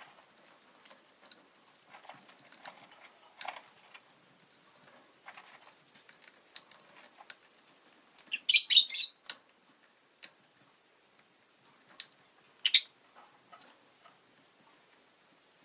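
Rosy-faced lovebird giving a short burst of sharp, high chirps about halfway through and a brief one more near the end, between soft scattered clicks and rustles.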